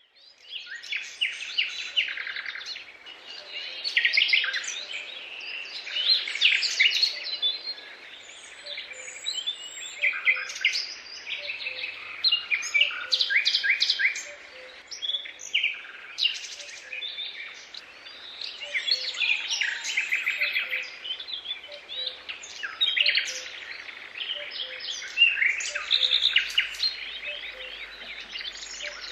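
Birdsong: several birds singing at once, with overlapping chirps and rapid trills that rise and fall in loudness.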